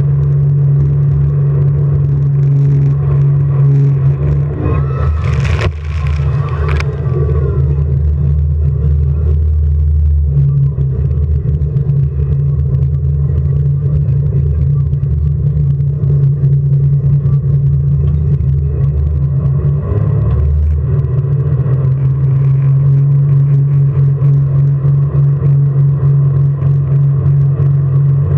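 Jet boat engine running at speed with a steady low drone, its deeper note swelling for several seconds near the start. About six seconds in there is a brief rush of noise, such as a burst of spray.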